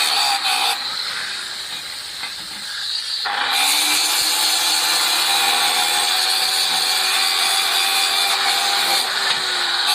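Arc welding on steel pipe: the welding arc crackling and hissing steadily. It drops quieter for about two seconds, starting about a second in, then picks up again.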